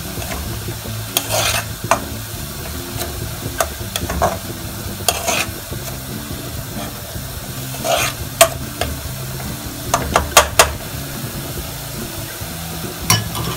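Chopped onions and garlic sizzling in an aluminium pot while a metal ladle stirs them, scraping and clinking against the pot several times.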